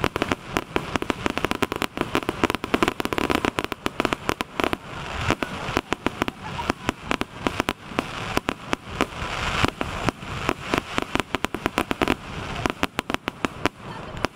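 Aerial fireworks: a dense, unbroken run of sharp pops and bangs, many a second, as shells burst overhead.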